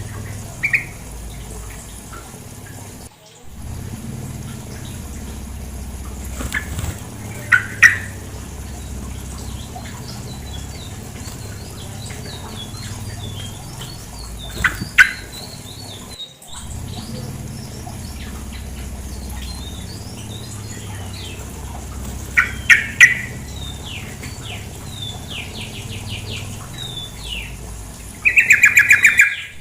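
Yellow-vented bulbul (trucukan) calling: short, loud calls in small clusters every several seconds, then a fast chattering burst near the end. Under the calls runs a steady low rush of flowing water.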